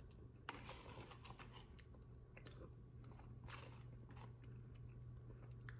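Faint close-up chewing of a soft mouthful of chicken enchilada bake, with small irregular clicks of the mouth and a spoon against the plastic tray, over a steady low hum.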